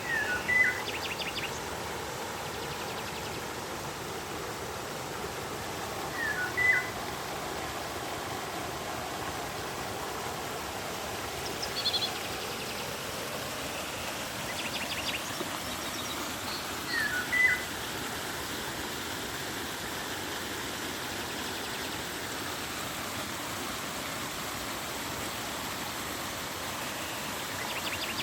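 River water flowing steadily, with a bird giving a short call four or five times, roughly every five or six seconds, among a few higher chirps.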